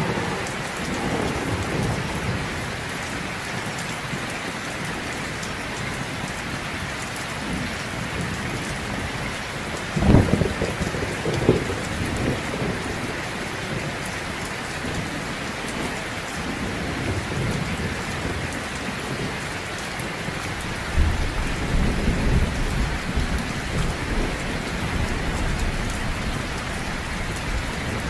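Heavy rain falling steadily, with a sudden crack of thunder about ten seconds in and low rolling thunder building in the last third.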